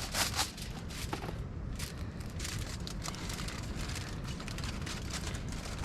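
Aluminum foil crinkling and crumpling in irregular bursts as it is folded and pressed around thick pork ribs to seal them. Wind rumbles on the microphone underneath.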